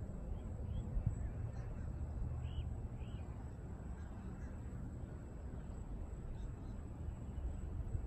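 Birds calling as they fly over water: several short calls, the two clearest about two and a half and three seconds in, over a steady low rumble, with a soft bump about a second in.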